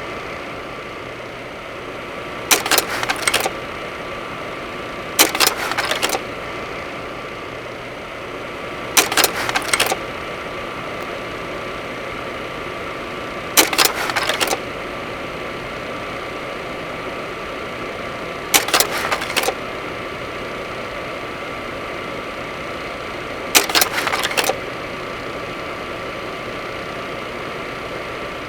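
Steady drone of a Cessna 208 Caravan's turboprop engine and cabin, with a thin whine. Short metallic rattling bursts, under a second each, break in every few seconds.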